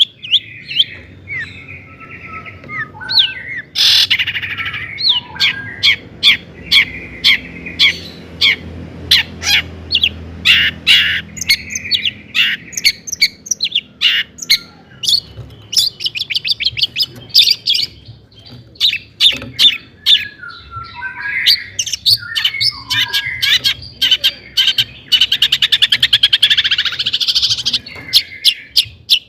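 Long-tailed shrike (cendet) singing a fast, varied song of sharp chipping notes and short warbled phrases, with a rapid rattling trill near the end.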